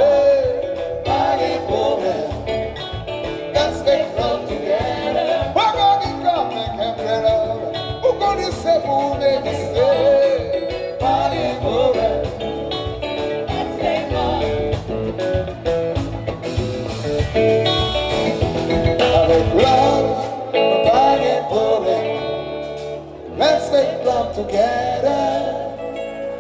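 Live band music with a singing voice over it; the low bass drops away for a few seconds near the end.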